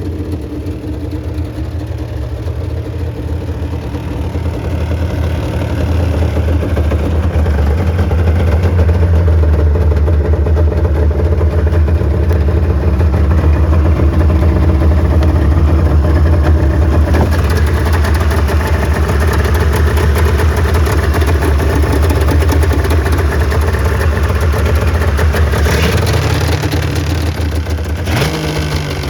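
1996 Arctic Cat ZRT 600 snowmobile's three-cylinder two-stroke engine running steadily just after a cold start in about 0-degree cold. It grows louder about six seconds in, and its pitch briefly steps up near the end.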